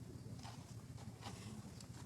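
Faint scattered taps and clicks, three in two seconds, over a steady low hum.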